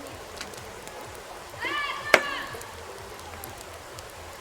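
Campfire crackling: a steady hiss with scattered small pops and one sharp, loud pop about two seconds in. A short voice sound rises and falls around the same moment.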